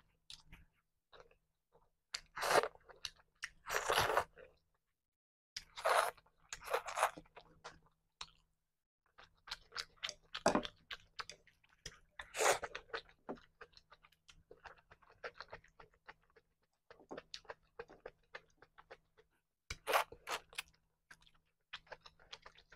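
Close-miked chewing and crunching of a meal of tilapia fish and salad eaten by hand: a steady run of small wet mouth clicks with several louder crunchy bites spread through.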